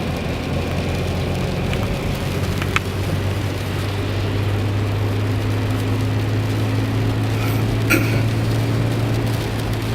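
A car driving, heard from inside the cabin: a steady low engine hum under even road noise, the hum growing a little stronger about halfway through. There are two brief clicks, one about three seconds in and one near the end.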